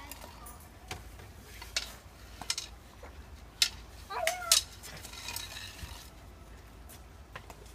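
Scattered sharp knocks and clicks, the loudest two about three and a half and four and a half seconds in, with a short voice-like sound between them.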